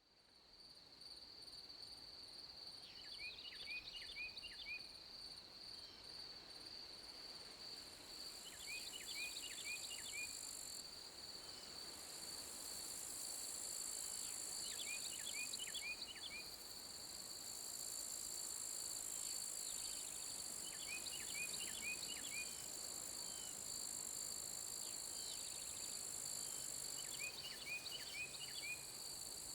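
Night chorus of crickets making a steady, pulsing high trill. A small songbird repeats a short phrase of quick chirping notes about every six seconds, five times in all.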